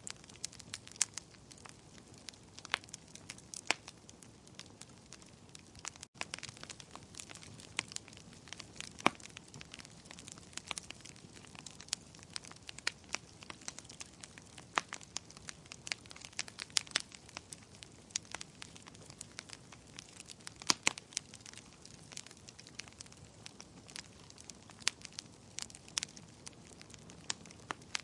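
Wood bonfire burning steadily, with irregular sharp crackles and pops, several a second, over a soft low hiss of flame.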